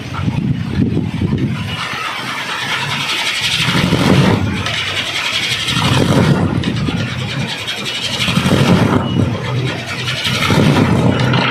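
Kolecer, a Sundanese wind-driven propeller spinner, whirring in the wind with a low, rough drone that swells and fades every two to three seconds.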